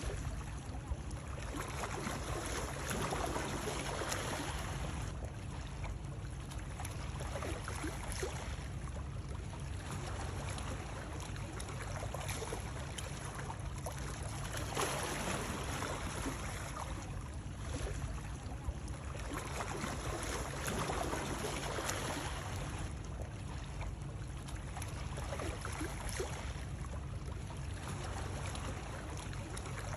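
Continuous water noise, a steady rushing and splashing that swells and eases every two to three seconds, like water lapping or sloshing.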